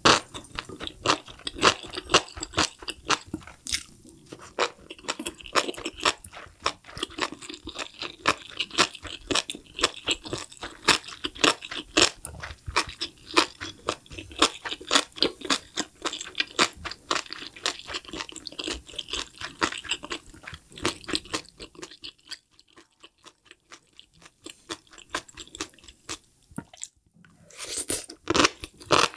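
Close-miked chewing of sauce-soaked enoki mushrooms: a dense run of quick, wet, crunchy clicks. It goes quieter about three-quarters of the way through, then gets loud again near the end as the next spoonful of enoki goes into the mouth.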